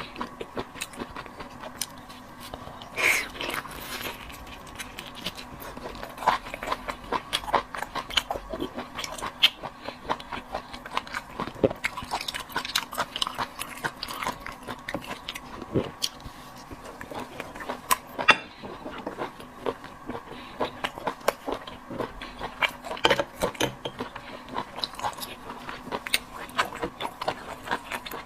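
A person chewing and biting seafood close to the microphone: a steady run of irregular wet clicks, smacks and small crunches. A faint steady hum runs underneath.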